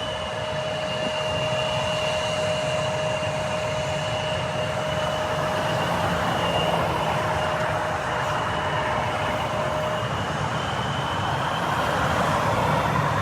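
Jet airliner's engines running: a steady roar with a high, thin whine that fades out about ten seconds in.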